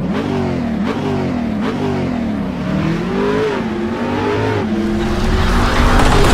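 Engine revving, its pitch rising and falling several times, then holding steady for the last second or so as a rushing noise builds up.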